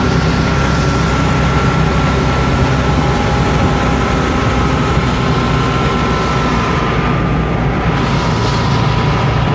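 A 1976 VW Fusca's air-cooled flat-four engine running on the move, heard from inside the car, with a steady high whine that sags slightly in pitch. The whine comes from the alternator bearing, which the owner says has started growling again.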